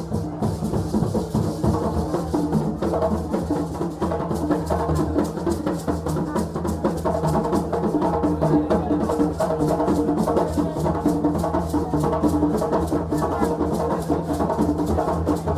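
West African drums played together in a fast, continuous, steady rhythm.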